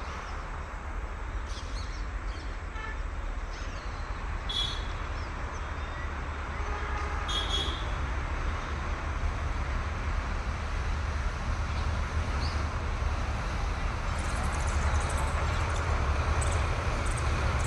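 A steady low engine rumble that grows louder toward the end, with a couple of brief high-pitched sounds partway through.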